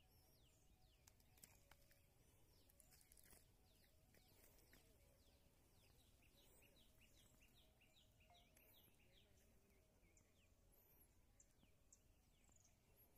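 Very faint birdsong: runs of short, quick, falling chirps, several a second, over a low rumble.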